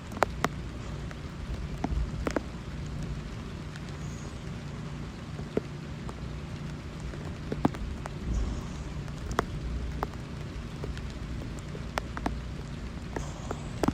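Steady rain, with sharp single drops striking close by every second or so over an even hiss, and a low rumble underneath.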